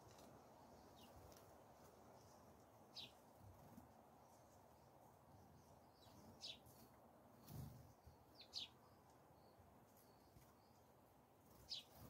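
Faint bird chirps: about five short, quickly falling notes a few seconds apart over a steady low background hum, with a soft low thump about halfway through.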